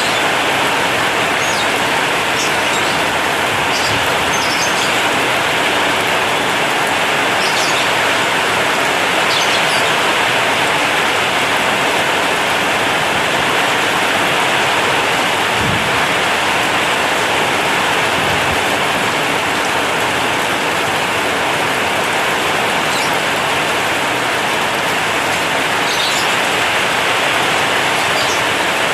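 Heavy rain drumming steadily on a corrugated zinc roof, a dense, unbroken patter. A few brief high chirps come through now and then.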